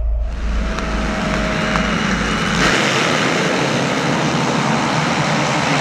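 Motocross dirt bikes racing, their engines blending into a loud, dense mechanical noise with brief pitched whines.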